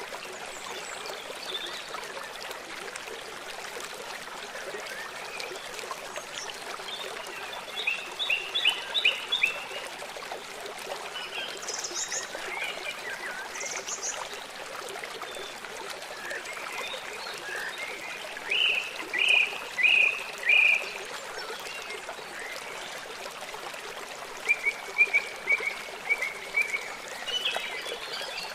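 Forest songbirds calling in short runs of three to six quick chirps, with a few higher single notes, over the steady hiss of a running stream.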